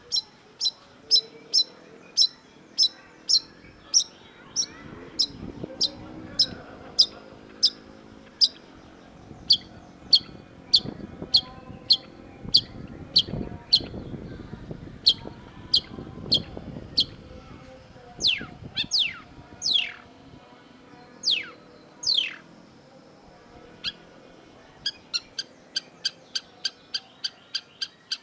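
Long-tailed shrike singing: a long series of sharp, high, evenly spaced notes at about two to three a second, broken about two-thirds through by a few downward-sweeping calls, then a quicker run of notes near the end.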